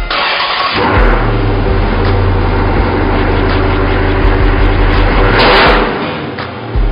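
Dodge SRT8 392's 6.4-litre Hemi V8 firing up on a cold start, catching about a second in and running steadily, with a brief rev about five seconds in.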